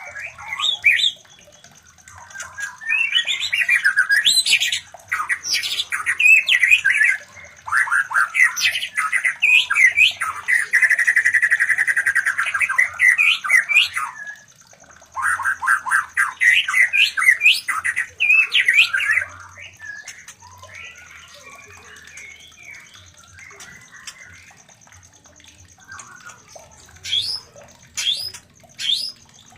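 White-rumped shamas (murai batu) calling during mating: rapid chattering and squawking phrases in bursts of several seconds with short pauses, going quieter after about twenty seconds before a few sharp calls near the end.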